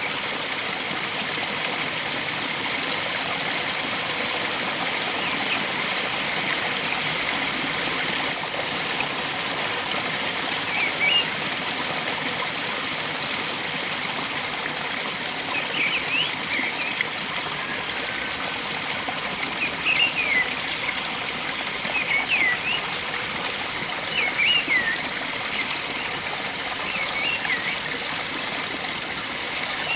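Steady rush of flowing water, with short, quick bird chirps every few seconds from about a third of the way in.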